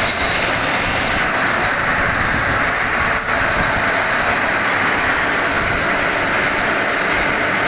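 Loud, steady noise of workshop machinery running.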